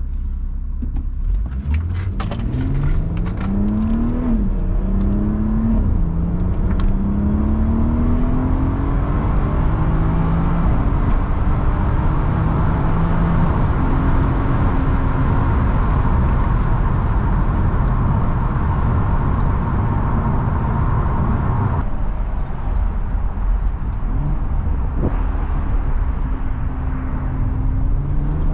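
BMW 340i's B58 turbocharged straight-six, decatted and on a Stage 2+ tune, accelerating through the gears: the engine note climbs, drops at two quick upshifts about four and six seconds in, then rises more slowly and settles into steady cruising. A few sharp clicks come during the first pull.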